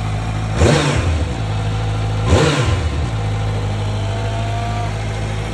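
Bimota KB4's Kawasaki 1043 cc inline-four engine idling and blipped twice, the revs rising and dropping back quickly about half a second in and again about two and a half seconds in.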